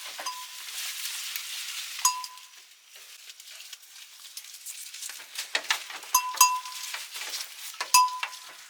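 Small metallic clinks, each ringing briefly, come irregularly and thicken in the second half. Under them is a soft hiss, plainest in the first two seconds.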